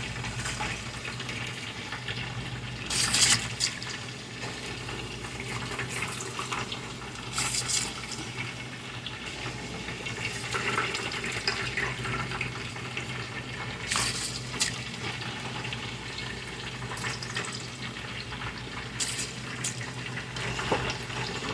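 Water running steadily from a kitchen tap into a sink, with a few brief sharp clatters or splashes scattered through it.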